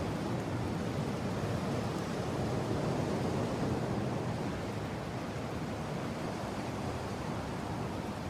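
Mountain wind blowing as a steady low rush, swelling slightly a few seconds in and easing again.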